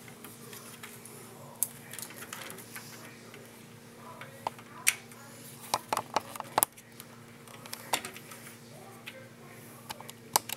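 Small metallic clicks and clinks of screws being handled and driven while a hard drive is fastened into a computer case's drive cage. The taps come irregularly, with a cluster of sharper ones about halfway through, over a faint steady hum.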